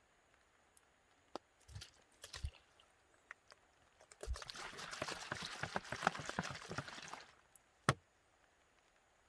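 Water poured into a container for about three seconds, a dense splashing trickle, with a few light knocks and clicks of handling before it and one sharp click after.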